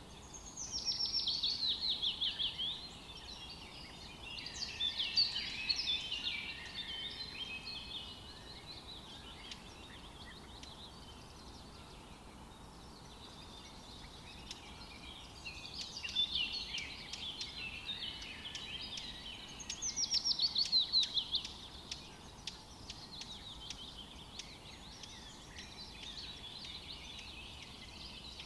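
Songbirds singing. A fast run of notes falling in pitch comes about a second in and again about twenty seconds in, with quieter chirping in between.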